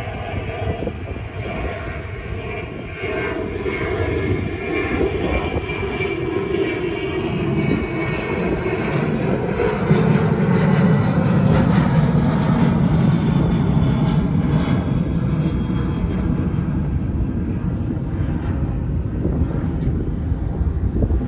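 A jet airliner passing low, its engines growing louder to a peak about halfway through, then easing slightly.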